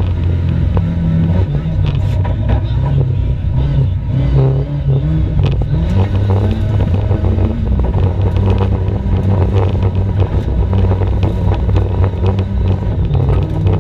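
Competition car's engine driven hard, its pitch climbing and dropping again and again with acceleration, lifts and gear changes, with scattered sharp clicks over it.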